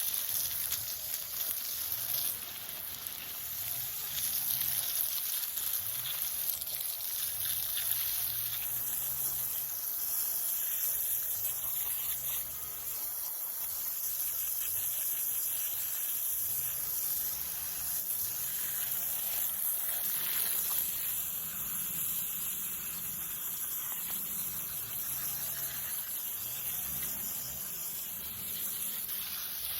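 Garden hose spraying water over freshly dug ginger rhizomes to rinse the soil off: a steady hiss of spray.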